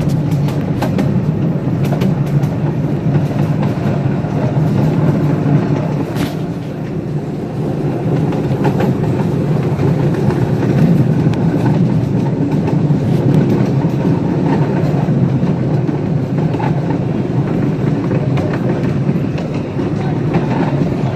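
Train rolling along the track behind a live steam locomotive: a steady rumble with scattered clicks of the wheels over the rails.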